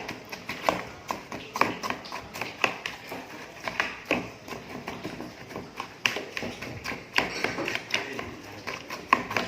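Irregular light clicks and knocks of glasses and kitchenware being handled.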